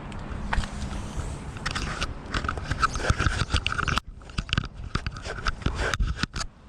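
Road bike rolling over a rough surface: irregular crunching and rattling clicks from the tyres and bike, with two short dips about four and six seconds in.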